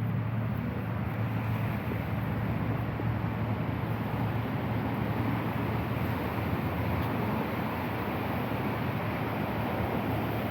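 Steady street noise: a continuous low hum like nearby traffic, mixed with wind on the microphone.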